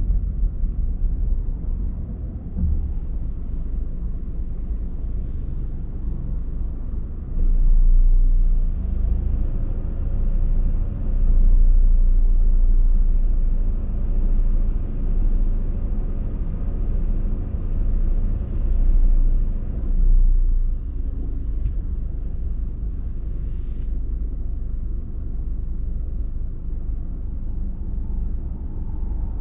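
Car driving on the road, with a steady low rumble of engine and tyres. It grows louder and deeper for about twelve seconds in the middle, with a faint steady hum, then settles back.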